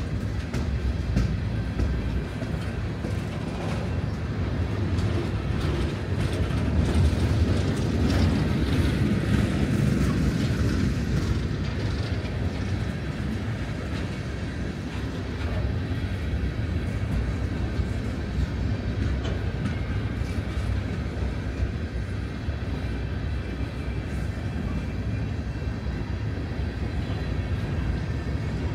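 Empty coal hopper cars of a freight train rolling past with a steady rumble and wheel clatter. It swells louder about a quarter of the way through, then settles.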